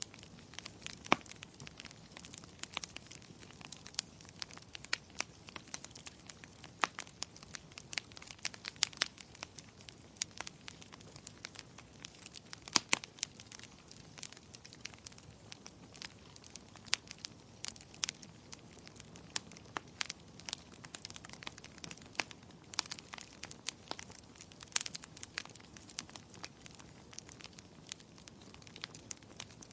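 Fire burning in a fireplace, crackling: irregular sharp pops and snaps, a few louder than the rest, over a soft steady hiss.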